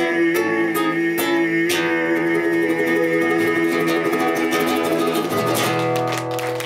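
Acoustic guitar playing the instrumental ending of a song: plucked notes ringing over a held bass, then a run of strummed chords near the end.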